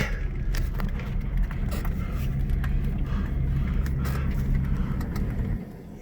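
Pickup truck engine running steadily at low speed while towing another truck, with a constant low hum that dips briefly near the end.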